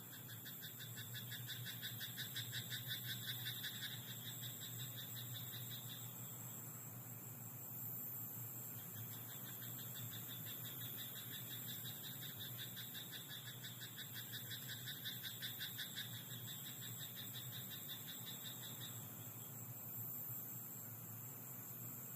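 Frogs in a rice paddy croaking in rapid pulsed trains. The calling comes in two long bouts: the first stops about six seconds in, and the second runs from about nine seconds until shortly before the end.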